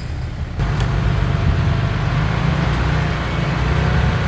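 Heavy diesel engine of earthmoving equipment running steadily, getting louder about half a second in and then holding.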